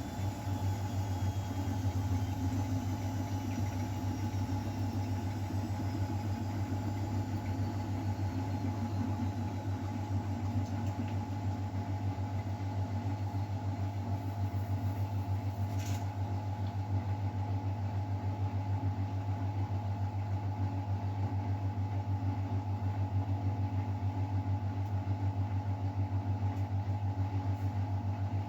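Miele Novotronic W912 washing machine running with a steady low hum. A faint high whine falls away over the first several seconds, and there is one brief click partway through.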